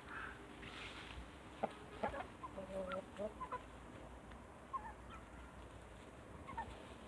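Domestic poultry calling: scattered short clucks and brief calls, fairly faint, with a few sharp clicks between them.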